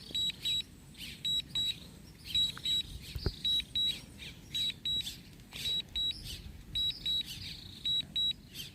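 DJI RC-N1 drone remote controller sounding its warning beeps: pairs of short high beeps repeating about once a second. A single knock about three seconds in.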